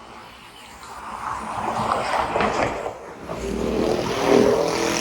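Road traffic heard from a moving bicycle: noise builds as motor vehicles pass, and about three and a half seconds in a vehicle's engine hum and low rumble come in close, the loudest sound here.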